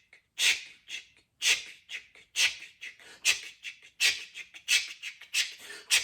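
Rhythmic hissy "chh" chuffs imitating a steam train pulling away, at about one a second at first and speeding up.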